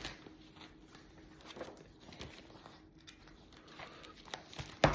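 Soft rustles and light taps from a picture book being handled, over a faint steady hum, with a short cluster of louder taps near the end.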